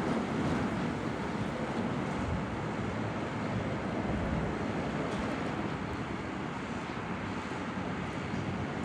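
Steady wind noise on the microphone over a low, even rumble, with no distinct events.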